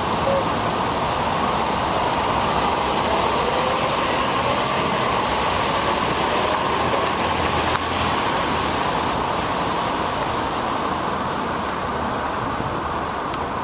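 Steady rushing noise of road traffic and tyres on wet pavement during a bicycle ride in the rain.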